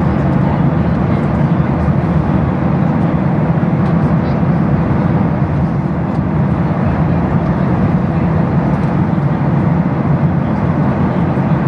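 Steady in-flight cabin noise of a Boeing 737-800: an even rush of airflow with the low drone of its CFM56 jet engines underneath.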